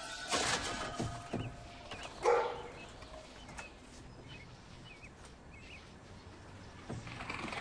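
Raccoon kit calling with short cries, the loudest about two seconds in, followed by faint high chirps.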